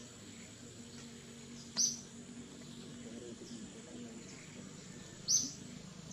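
Forest ambience: a bird's short, high call sounds twice, about three and a half seconds apart, over a faint steady high-pitched insect drone.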